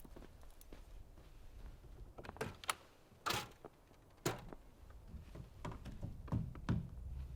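A series of sharp knocks and thuds, about eight in all, with a brief scraping rush about three seconds in.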